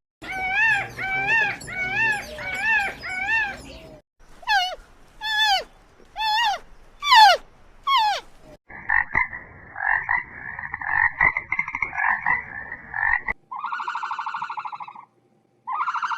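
A run of animal calls cut one after another: first about six rising-and-falling calls in quick succession, then five calls that each drop sharply in pitch, then a rapid pulsing trill for about four seconds, and near the end two short buzzy calls.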